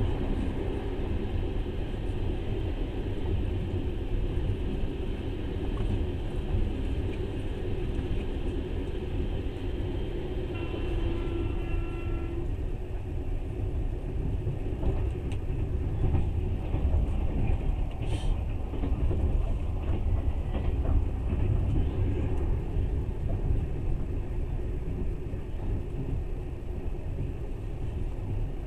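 Steady low rumble of a passenger train running on the rails, heard from inside the carriage. For the first twelve seconds or so, a freight train of boxcars passing on the next track adds a louder rushing clatter, with a brief high pitched tone near its end. Then the sound falls back to the train's own low rumble.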